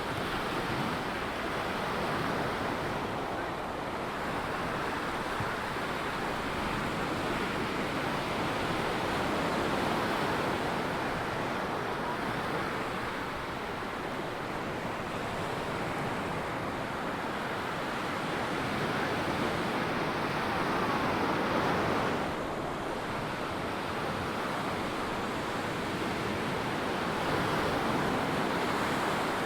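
Ocean surf washing onto a sandy beach: a steady rushing that swells and eases gently every several seconds.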